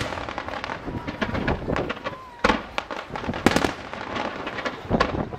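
Fireworks display: aerial shells bursting in a rapid run of bangs over continuous crackling, with heavier booms about two and a half, three and a half and five seconds in.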